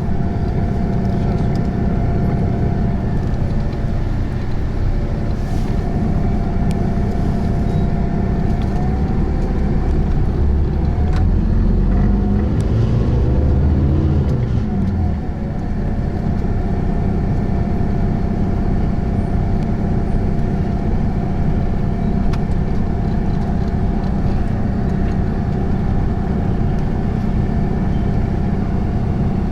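Engine and road noise inside a moving bus: a steady low rumble with a constant whine, the engine's pitch rising and then falling about halfway through as the bus changes speed.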